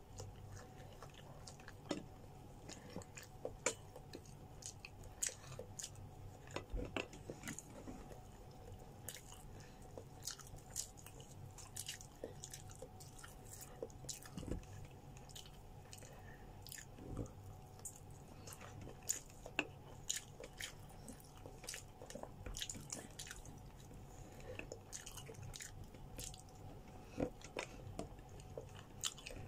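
A person chewing and biting grilled chicken close to the microphone: many short, irregular mouth clicks and crunches over a steady faint hum.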